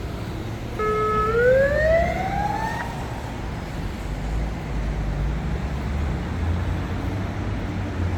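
A high whine in street traffic holds for about half a second, then rises steadily in pitch for a second and a half and cuts off, over the low rumble of city traffic.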